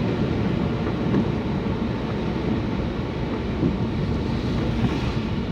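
Steady rumble of a car being driven on rain-soaked roads, heard from inside the cabin.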